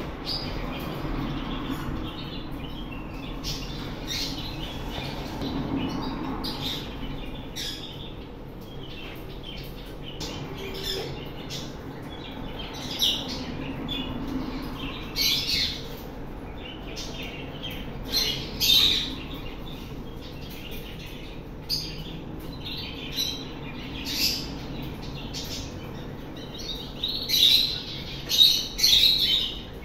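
Pet parrots calling: many short, high chirps in uneven clusters, the loudest coming near the end.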